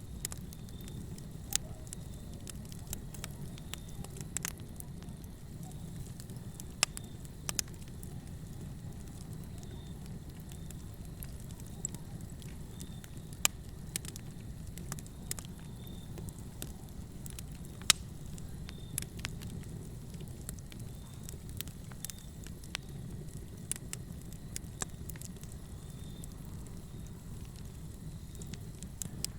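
Fire crackling in a fireplace: a steady low rush of flames under sharp pops and snaps at irregular intervals, the loudest pop about eighteen seconds in.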